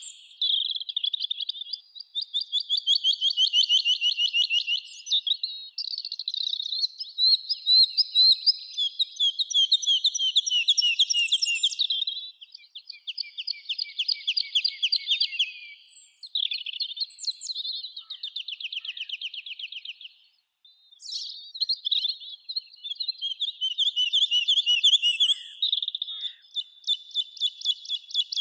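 Songbirds singing in a summer forest: rapid trilled and chirping phrases of a few seconds each, one after another, with a brief pause about twenty seconds in.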